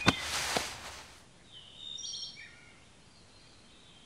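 A short rushing noise with a sharp click at its start fills the first second. Then comes quiet forest ambience, with a few bird chirps about two seconds in.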